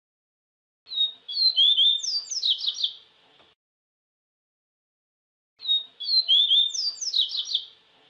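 A papa-capim seedeater (Sporophila) sings the same quick, high-pitched phrase twice, about four and a half seconds apart. Each phrase is a run of sharp chirps and falling whistled slurs lasting about two and a half seconds.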